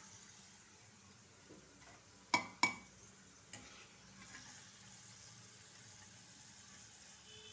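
Potato cubes sizzling faintly in hot oil, with two sharp clanks of a metal ladle against the pan about two and a half seconds in and a lighter tap a second later.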